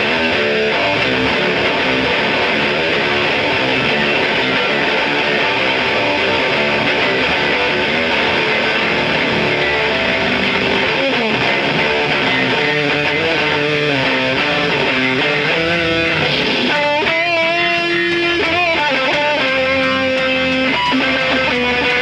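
A rock band playing, with strummed electric guitars and bass. About seventeen seconds in, a held, wavering melody line comes to the fore above the band.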